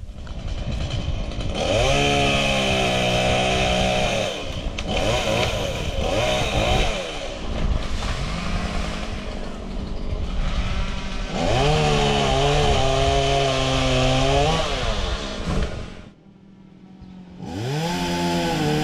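Gas chainsaw run up to full throttle in long stretches, dropping back toward idle in between. About sixteen seconds in it goes much quieter for a moment, then revs up again.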